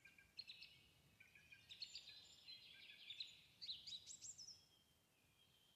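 Faint birdsong: quick, high chirping notes from small birds, in a run that grows denser about two thirds through.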